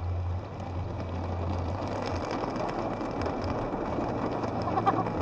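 Heard from inside a car driving in heavy rain: a steady low hum of engine and road under a dense hiss of rain and wet tyres, growing slowly louder.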